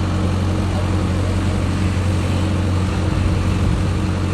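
Mini excavator engine running steadily at a constant speed, with a low, even hum.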